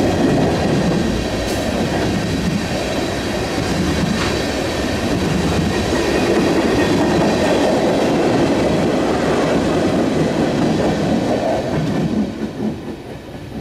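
Morristown & Erie freight train's tank cars rolling past, steel wheels running on the rails in a steady rumble. The noise drops away near the end as the last car clears.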